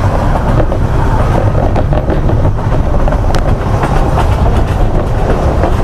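Ffestiniog Railway narrow-gauge train heard from on board: the coach's steady running rumble with scattered sharp clicks from the wheels on the rails.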